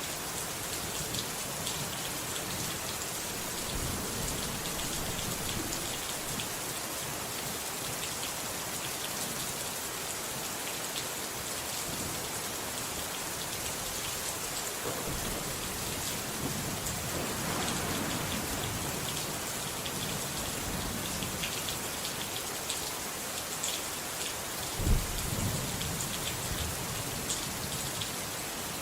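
Steady rain falling, with a low thunder rumble swelling around the middle and a sharp clap of thunder a few seconds before the end that rolls on afterwards.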